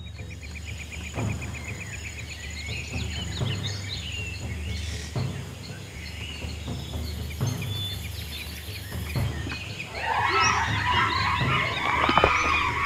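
Nature ambience: a low steady rumble with scattered bird chirps, joined about ten seconds in by a louder, dense chorus of bird calls.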